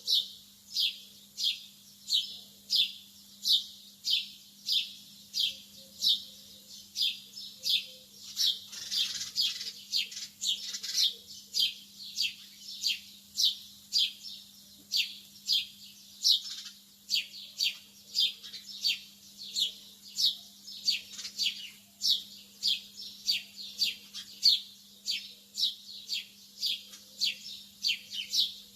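Lovebirds chirping: sharp, high, downward-sliding chirps repeated in a steady rhythm of about two a second, with a busier flurry of calls about a third of the way in. A faint steady low hum runs underneath.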